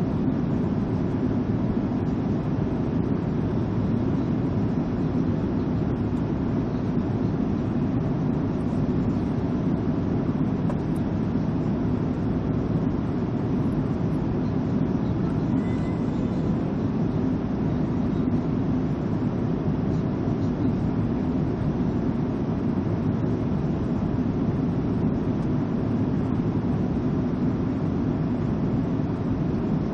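Airliner cabin ambience in flight: a steady low rumble of engines and airflow with an even hiss, unchanging throughout.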